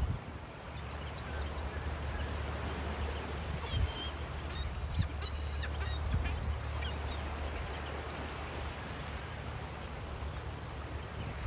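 Seagulls calling in short cries over the steady wash of ocean waves, the calls gathered in the middle of the stretch and again at the very end.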